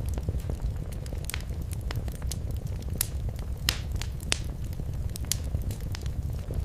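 Wood fire crackling in a fireplace: irregular sharp pops and snaps over a steady low rumble of the flames, with a few louder pops in the middle.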